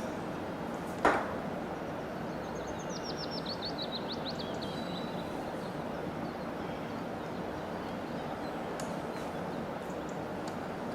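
Steady background hiss with one sharp knock about a second in. A small bird gives a quick descending trill of high chirps from about two to five seconds in.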